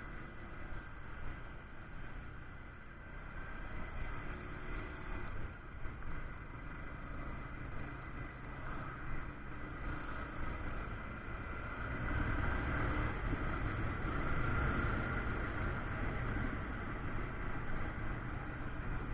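A moving vehicle, engine running with road and wind noise on an action camera's built-in microphone, growing louder about twelve seconds in.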